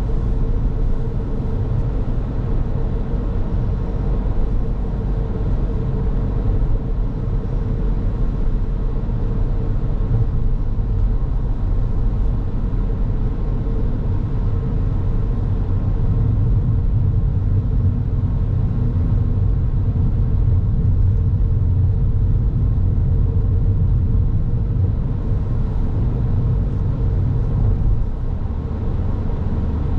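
Car driving along a road: a steady low rumble of road and engine noise with a faint constant hum.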